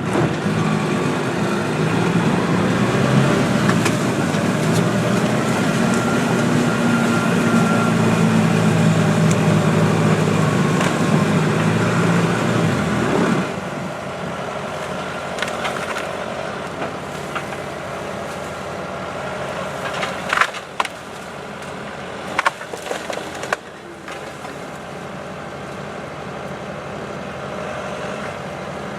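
John Deere 6420 tractor's diesel engine running hard under load while its grapple bucket works a fallen oak tree, then dropping suddenly to a quieter, lower run about thirteen seconds in. Three sharp cracks of splintering wood come a little later.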